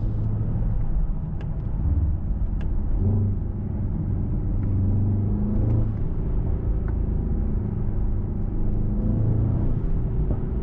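Mercedes-AMG S63 E Performance's twin-turbo V8 running at low revs while driving slowly, a steady low hum with road noise, its pitch rising and falling slightly.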